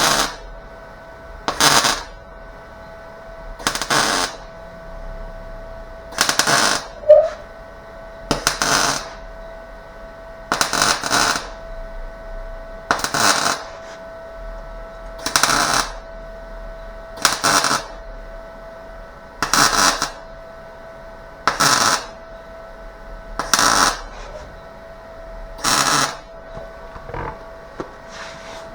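Welder laying a string of short tack welds on car sheet metal: about thirteen brief crackling bursts, one every two seconds or so, each under a second long. A steady hum runs underneath.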